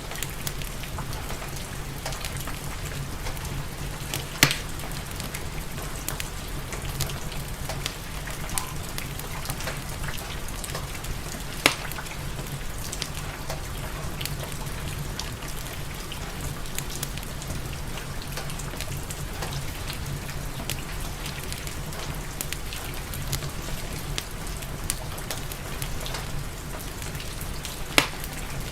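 Steady rain mixed with wood-fire crackling: a continuous hiss of rain over a low steady hum, scattered faint ticks, and three loud sharp pops, about four seconds in, near twelve seconds and near the end.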